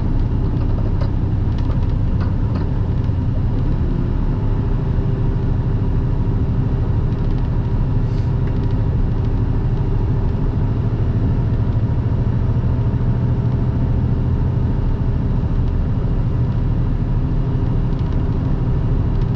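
Semi truck's diesel engine and road noise heard from inside the cab: a steady, even drone while the truck climbs a long grade.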